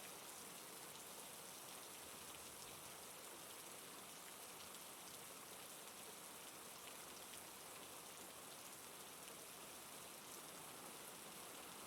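Faint, steady rain falling, an even patter of raindrops without pause or change.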